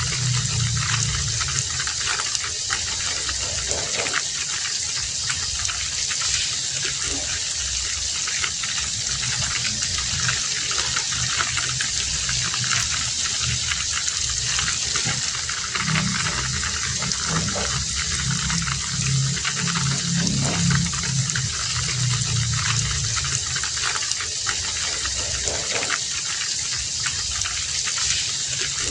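Heavy rain falling steadily as a dense hiss, full of small drips and splashes, with a lower rush of running water that swells and fades a few times.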